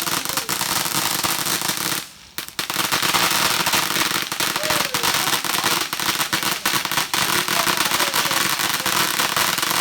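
Consumer firework crackling with a dense, rapid run of sharp pops. It breaks off for about half a second around two seconds in, then keeps going steadily.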